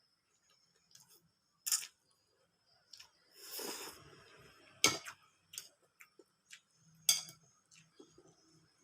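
Close-up eating sounds of someone eating noodles with mango rujak: a handful of sharp clicks and ticks from chewing and tableware, and a short noisy burst a little over three seconds in.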